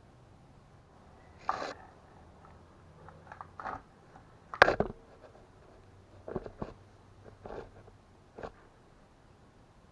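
A series of separate short knocks and clunks, about seven in all, with the loudest about halfway through.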